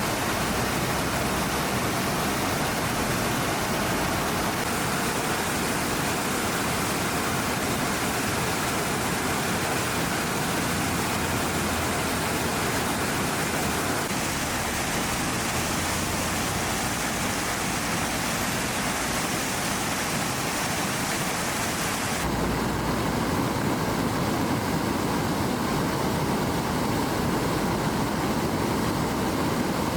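Steady rush of floodwater, an even, loud noise that changes character abruptly twice, about halfway through and again about three quarters through.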